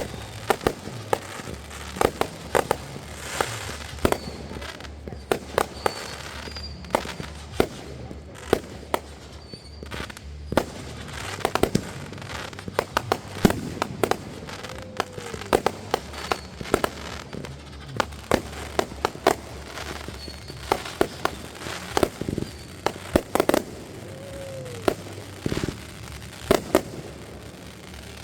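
Fireworks going off: many sharp bangs and crackles in quick, irregular succession, with a couple of brief whistling tones in the middle and later on.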